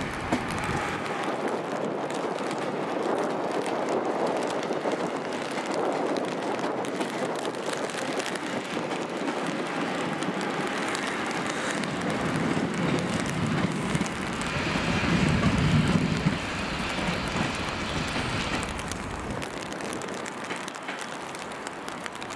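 Steady noise of rain and gusting wind in a storm, with a louder low rumble swelling about two-thirds of the way through.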